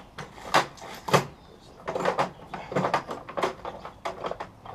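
Irregular clicks and knocks of hand tools and parts being handled while the motorcycle's brake rotor bolts are worked loose, the sharpest two about half a second and a second in.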